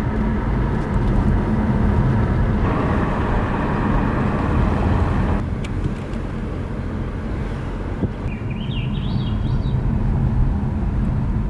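Steady loud low rumbling noise, like road or wind noise, changing abruptly twice in the first half as if cut between shots. A short run of bird chirps is heard about eight seconds in.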